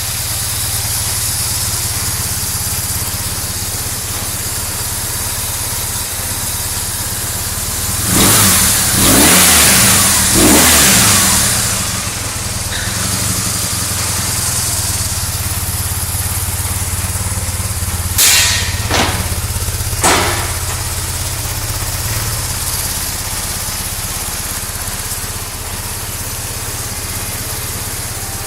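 1999 BMW R1100RS's boxer twin engine idling steadily, revved up and back down twice about eight to eleven seconds in, then blipped briefly twice a little later.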